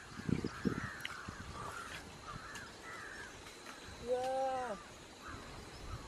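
Birds chirping with many short calls. About four seconds in comes one longer, clear call that rises and then falls, and it is the loudest sound. A few low thumps come just after the start.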